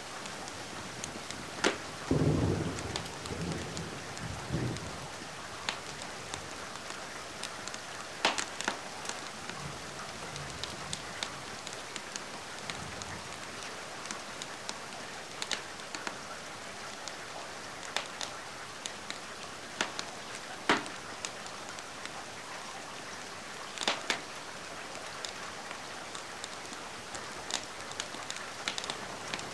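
Steady rain with a low roll of thunder about two seconds in, and a fireplace's wood fire crackling with sharp pops every few seconds.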